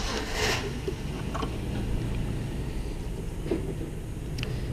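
Light work-handling noise: a short rustle right at the start, then a few faint clicks, over a steady low hum.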